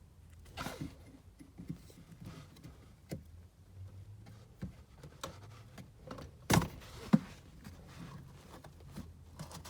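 Hand work on car parts: scattered clicks, knocks and light rattles as pieces are handled and fitted, with two sharper knocks about six and a half and seven seconds in.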